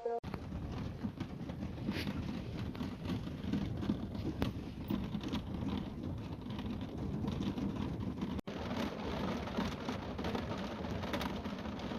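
Steady rain falling, a dense patter of many small drop ticks over an even hiss.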